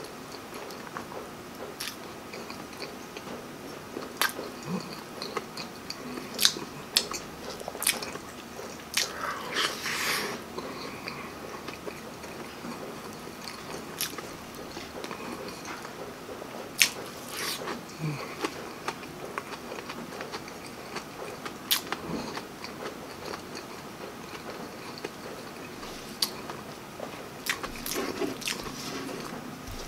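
Close-miked chewing of breaded fried fish fillet in creamy a la king sauce, with wet mouth smacks and many scattered sharp clicks, and a longer noisy stretch about ten seconds in.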